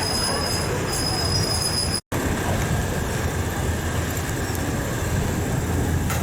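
A train running on the rails with a steady low rumble. Thin, high-pitched wheel squeal is heard over the first two seconds. The sound cuts out for an instant about two seconds in, then the running noise carries on.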